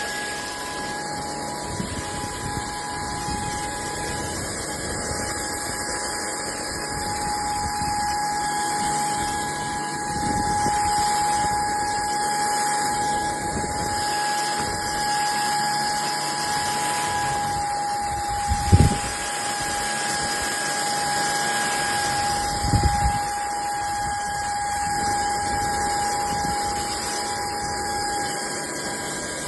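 SKIWEC cordless stick vacuum cleaner running steadily, a constant motor whine over the hiss of rushing air, with two short knocks about two-thirds of the way through.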